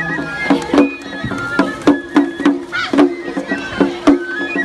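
Japanese festival music for a lion dance: a high flute melody moving in held steps over steady percussion beats, about two to three a second.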